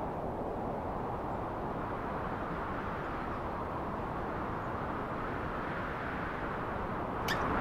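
Steady outdoor ambience: an even, low background noise with no distinct events. A single sharp click comes near the end, and the sound grows louder after it.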